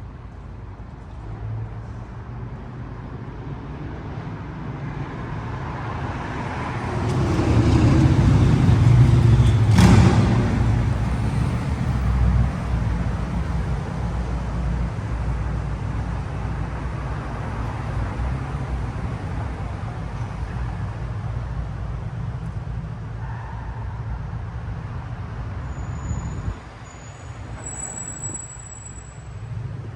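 A motor vehicle's engine running, swelling to its loudest about a third of the way in with a sharp knock at the peak, then a steady low rumble that drops away near the end.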